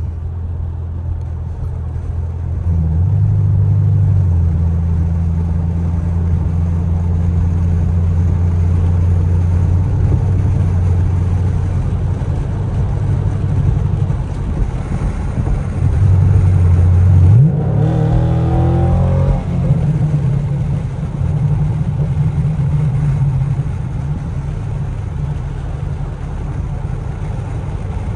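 Muffler-deleted Camaro SS V8 heard from inside the cabin while driving: a deep, steady exhaust drone that grows louder about three seconds in. About two-thirds of the way through the revs rise briefly, then settle back into a lower, steady drone.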